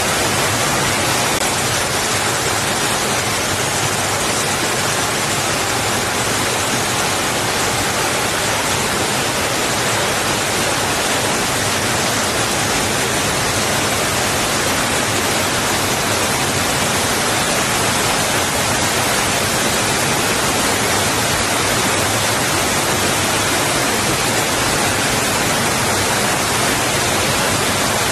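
Water rushing against rocks: a steady, even hiss with no surges or breaks.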